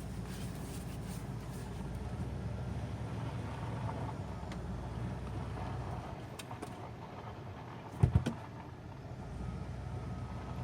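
Ford motorhome's engine running low and steady as the RV is driven slowly, heard from inside the cab, with one short heavy thump about eight seconds in.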